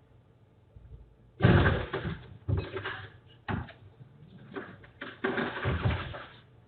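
A series of loud bangs and clatters. The loudest comes suddenly about a second and a half in, with several more hits over the next few seconds.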